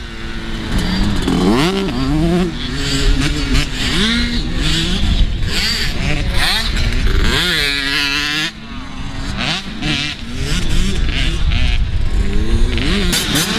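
Motocross dirt bikes racing, several engines revving up and falling away as they shift gears through the track. About halfway through, one bike revs up high and then drops off sharply.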